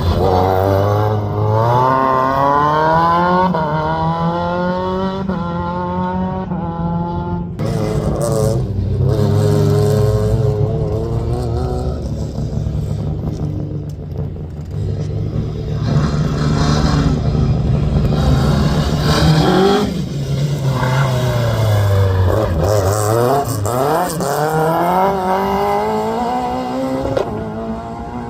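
Rally car engine at full throttle, its pitch climbing and dropping back again and again as it changes up through the gears. About seven and a half seconds in it lifts off suddenly, then revs on, slowing and picking up again a little after twenty seconds.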